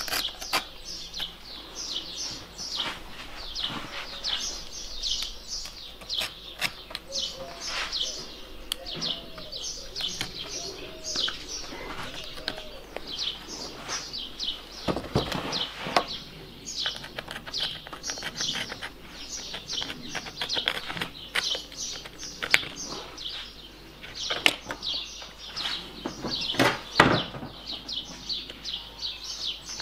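Small birds chirping steadily, a dense run of quick, short falling chirps over and over, with a few sharp knocks or scrapes from handwork, the loudest about 15 and 27 seconds in.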